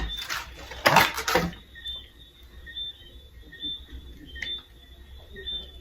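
A cologne box and its wrapping being handled and opened: two short, noisy bursts in the first second and a half, then lighter clicks and rustles.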